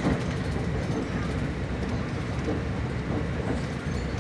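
TER regional train running on the rails, a steady low rumble heard from inside the carriage.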